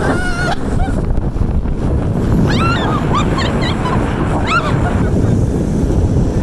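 Wind rushing over the microphone as a snow tube slides fast down the run, with a woman's shrieks and yells rising and falling, clustered around two to five seconds in.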